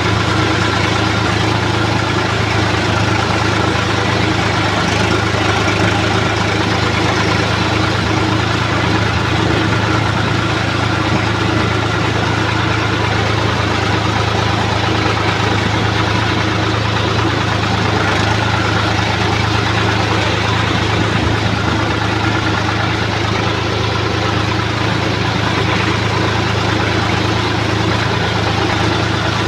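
Swaraj 960 FE tractor's diesel engine running steadily while ploughing, with a deep even hum and no change in pitch or level.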